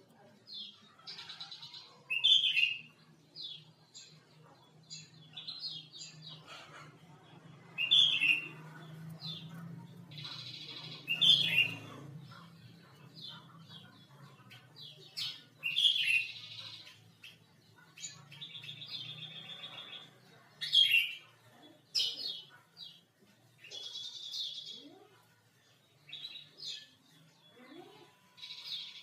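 Male sooty-headed bulbul (kutilang) giving its basic call: loud, short chirping phrases every few seconds with softer chirps between. A buzzy, second-long sound comes and goes several times, over a faint low hum.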